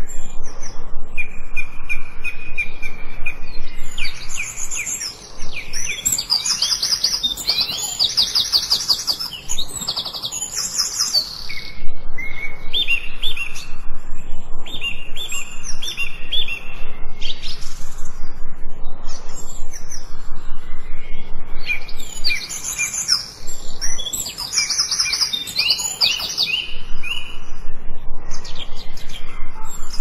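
Several songbirds singing: repeated whistled notes and fast warbling trills. The song is busiest about four to eleven seconds in, and again about twenty-two to twenty-seven seconds in.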